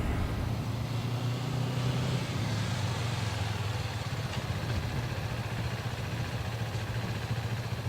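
Motorcycle engine running steadily at low revs, a constant low hum.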